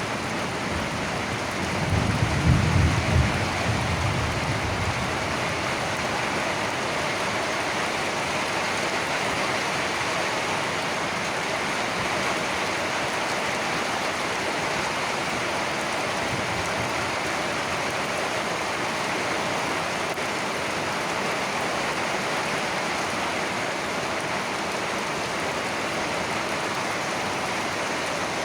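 Steady rain falling, with a low roll of thunder rumbling about two seconds in and fading out.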